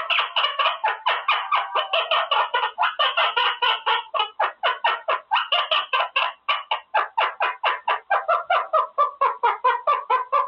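Quaker parrot (monk parakeet) chattering in a fast, unbroken run of short notes, about five or six a second.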